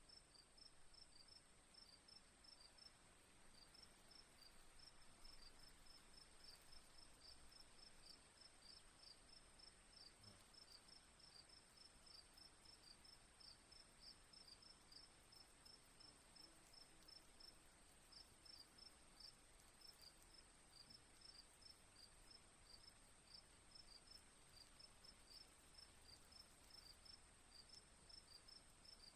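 Faint crickets chirping in quick, regular pulses over a steady high-pitched insect trill, pausing briefly about two-thirds of the way through.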